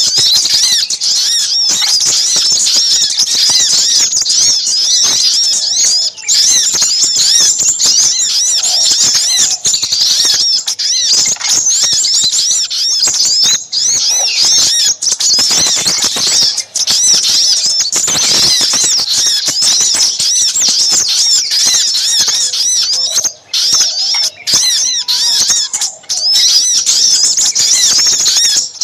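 Dense, unbroken high-pitched chirping and twittering of small birds: noisy little spiderhunter calls mixed with crimson sunbird song, played as a bird-trapping lure. It is loud throughout, with a few momentary breaks.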